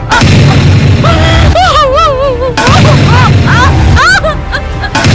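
Dramatic background music: a wavering, ornamented melody over heavy booming low drum hits.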